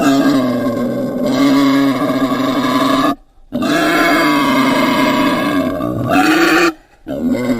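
Long drawn-out animal calls, each lasting about three seconds, with short breaks between them and a brief rise in pitch near the end of the second call.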